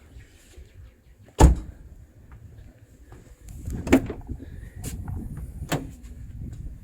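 Cardboard boxes being handled for unboxing: one sharp knock about a second and a half in, then three lighter knocks with shuffling and low rumbling between them.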